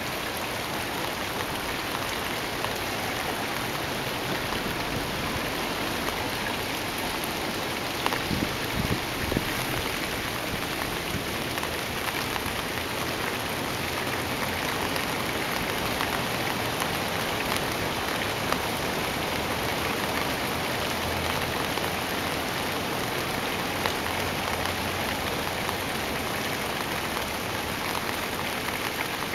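Steady rain falling into a puddle: an even hiss with many small drop ticks. A few louder low knocks come about eight or nine seconds in.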